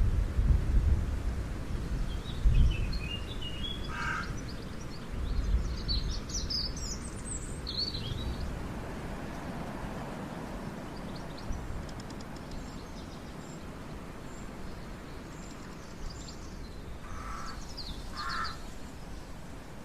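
Outdoor ambience: wind rumbling on the microphone in gusts, strongest in the first few seconds, with a few short bird calls about three to four seconds in, again a few seconds later, and once more near the end.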